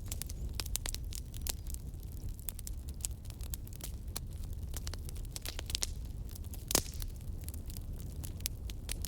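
Wood fire crackling, with irregular sharp pops and snaps over a steady low rumble of the flames; one louder pop about seven seconds in.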